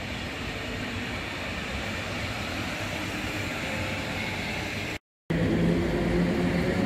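Passenger coaches rolling along the rails with a steady rumble. After a short break, a PKP Cargo EU07 electric locomotive passes close by, louder, with a steady hum over the rumble of its wheels.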